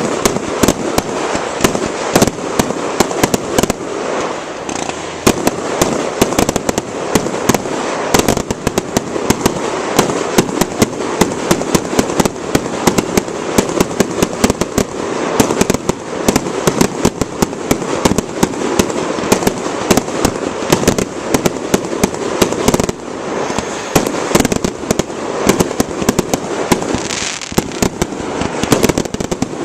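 Fireworks display: a dense, continuous barrage of bangs, many reports each second with no let-up.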